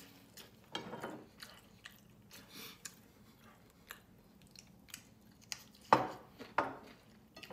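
Close-up eating sounds: a person chewing chicken adobo and rice with small wet mouth clicks and smacks, and two louder bites about six seconds in as a green chili pepper is bitten.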